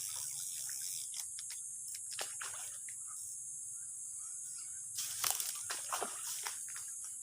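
Light splashing and sloshing of water, with a cluster of sharper splashes about five seconds in, over a steady high-pitched insect hiss.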